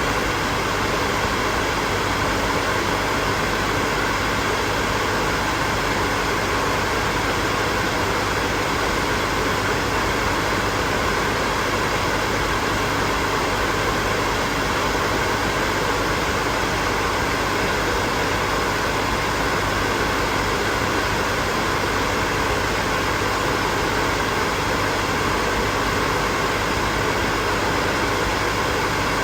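Hair dryer running steadily: an even blowing hiss with a faint steady hum underneath, no change in speed or level.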